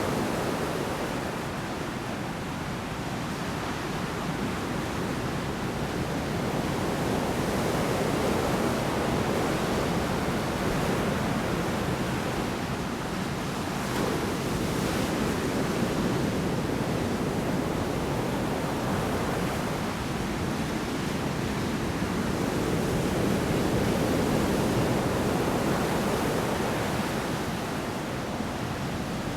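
Large storm waves breaking on a shore: a continuous rush of surf that slowly swells and eases.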